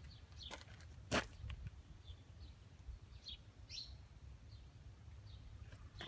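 Faint outdoor background: a few short bird chirps over a low rumble, with a sharp click about a second in.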